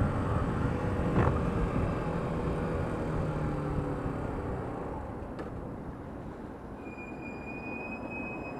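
Yamaha YBR125's single-cylinder four-stroke engine running under road and wind noise, its note easing off after a few seconds. Near the end a steady high-pitched squeal sets in and holds.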